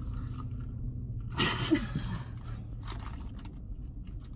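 A person biting into and chewing fast food, with a short crackling rustle about a second and a half in and small clicks after it. A steady low hum runs underneath.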